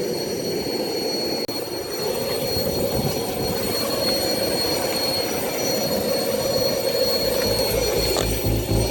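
Turbine aircraft engine running on an airport ramp: a steady rushing roar with a thin, high, steady whine above it. Background music with a beat comes in near the end.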